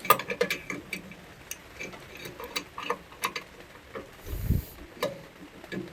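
Irregular metallic clicks and ticks of a wrench working the snowblower's oil drain plug as it is tightened back in, with one dull thump about four and a half seconds in.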